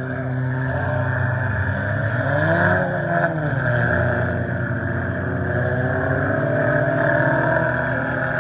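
Several scramble race cars running laps on a dirt oval, engines droning together, with one engine's pitch rising and falling as a car passes about two to three seconds in.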